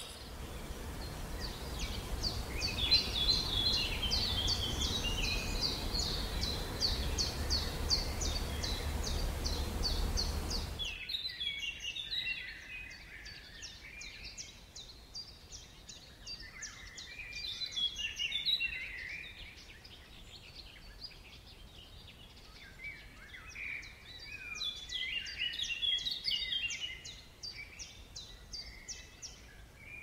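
A chorus of many small birds chirping and trilling. For the first third there is a steady low rumble and hiss under the birds, which stops suddenly, leaving the birdsong alone and quieter, with louder bursts of song later on.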